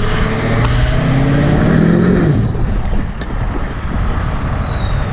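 A vehicle engine revving, its pitch climbing for about two seconds and then dropping sharply, over a high whine that rises and then slowly falls away.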